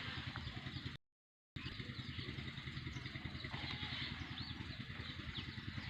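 A small engine running steadily with an even low rumble. The sound cuts out completely for about half a second about a second in.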